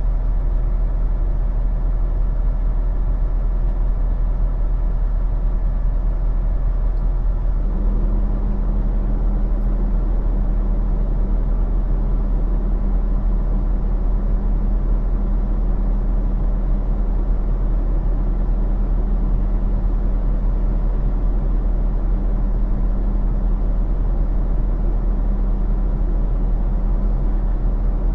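Semi truck's diesel engine running steadily with a deep rumble; a steady, higher drone joins about eight seconds in.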